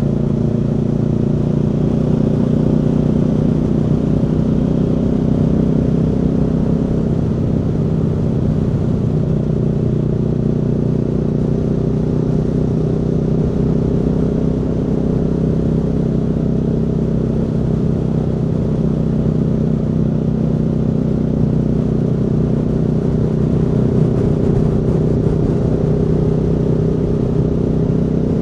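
Aprilia Tuono V4 motorcycle's V4 engine running under way at a fairly steady pace, its pitch drifting only slightly.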